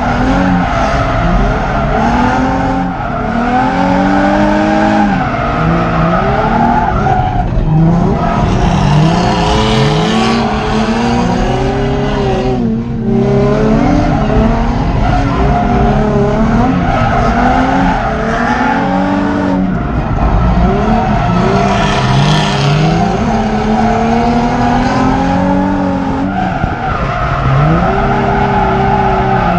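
Drift car engine revving hard and constantly rising and falling in pitch as the car is thrown through the corners, with tyres squealing and skidding. The engine is briefly let off several times, at about 3, 7.5, 13, 19.5 and 27 seconds.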